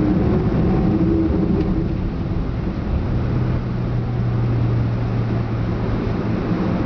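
Boeing 767-200 airliner's twin jet engines running, heard from inside the cabin as a steady rumble and hiss, with a steady low drone coming in about three seconds in.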